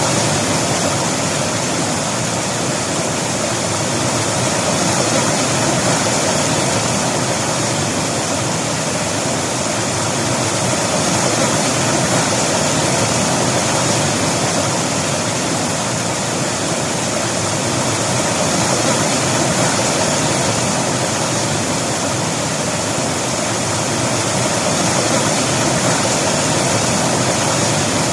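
River water flowing over rocks, a steady loud rushing with no breaks.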